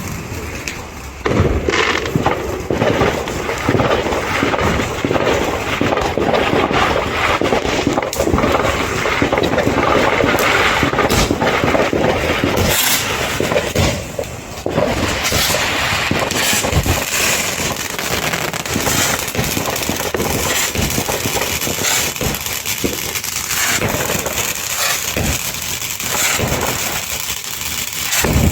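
Firework fountains hissing and crackling continuously, the sound growing louder about a second in and dipping briefly around halfway through.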